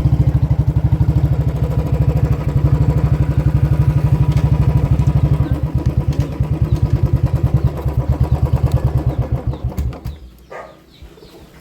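Royal Enfield Bullet 350 single-cylinder engine running at a steady idle through a loud modified exhaust, an even train of deep thumps. It stops about ten seconds in.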